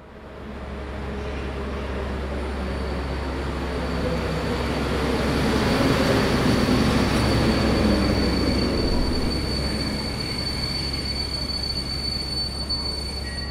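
An electric-locomotive-hauled passenger train passes close by along a station platform. It rises quickly in the first second into a steady rumble and rush of wheels on rail, loudest midway through. A thin, steady, high-pitched wheel squeal runs through it and grows stronger near the end.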